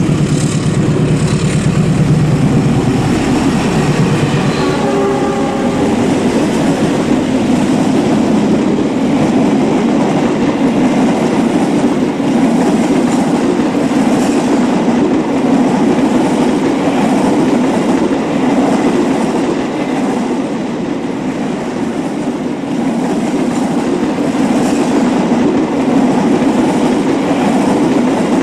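A diesel-locomotive-hauled train passing a level crossing: steady rolling noise, with wheels clattering over the rail joints. A locomotive horn sounds during the first few seconds.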